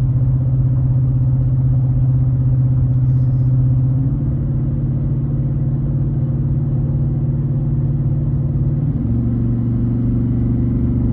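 Pickup truck engine under load at highway speed through a newly fitted Banks Monster exhaust, giving a steady deep, mellow drone. About four seconds in the pitch steps up as the automatic transmission downshifts on a hill and the revs climb toward 3,000 rpm. The tone shifts again near nine seconds.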